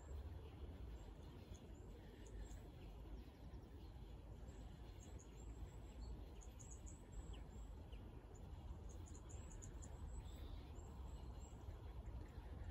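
Faint outdoor ambience: small birds chirping, high and thin, in short scattered runs that come mostly in the second half, over a low steady rumble.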